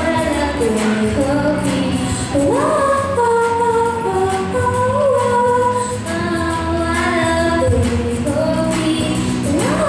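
Female voice singing a song over instrumental accompaniment, with long held notes that waver in pitch and a few upward slides.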